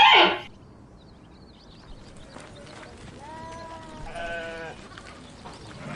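A loud, harsh burst fades out within the first half-second. Then, after a pause, come two bleats from a farm animal about a second apart, the second one louder.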